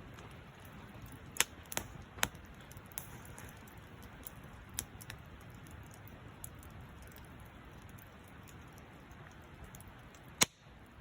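Wood fire crackling over a steady low hiss, with a few sharp pops; the loudest pop comes near the end.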